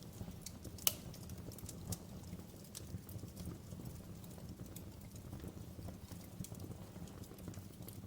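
Wood fire crackling in a fireplace: scattered sharp pops and crackles over a steady low rumble of the flames, with one louder pop about a second in.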